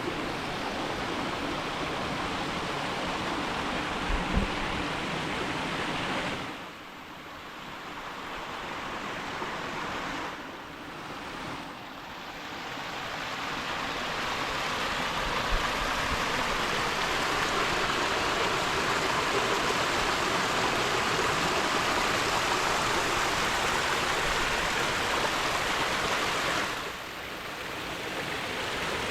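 Mountain stream rushing over rocks, a steady full water noise that drops in level briefly three times, with a short soft thump about four seconds in.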